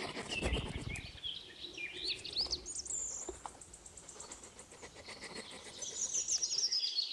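Small birds chirping on and off over faint outdoor background noise, with a low rumble in about the first second and a half.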